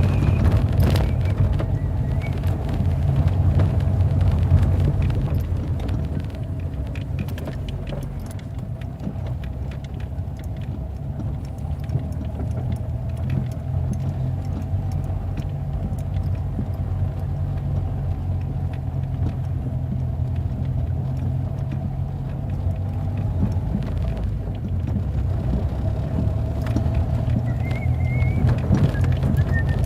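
Car driving: a steady low engine and road rumble that dips slightly in loudness around the middle and swells again near the end.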